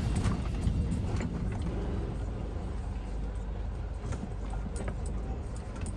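Scania truck's diesel engine running, a low steady rumble.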